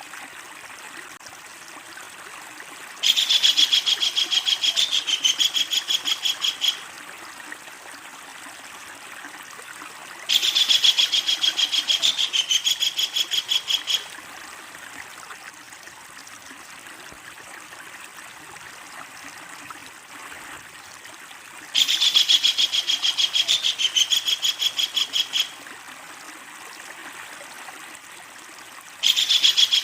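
Kingfisher giving its long, loud chattering call: rapid, evenly repeated notes in bouts of about three and a half seconds, heard four times, the last starting just before the end. A steady hiss like running water lies underneath.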